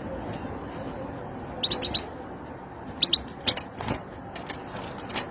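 A bird chirping: three quick high chirps about one and a half seconds in, then two more about a second later, followed by a few clicks.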